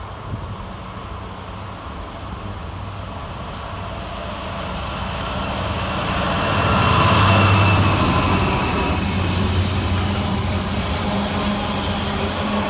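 Class 66 diesel locomotive, with an EMD two-stroke V12 engine, approaching and passing with a container freight train. It grows louder to a peak about seven seconds in, then the steady rumble carries on as the train goes by.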